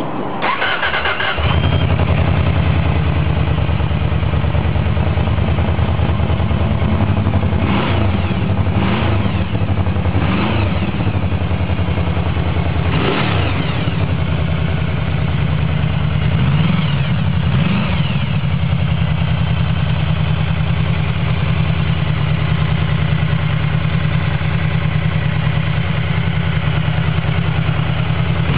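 Yamaha VMAX V4 motorcycle engine with a Prunus aftermarket muffler: the starter cranks for about a second, the engine catches and idles, then it is revved in several short blips before settling back to a steady idle through the exhaust.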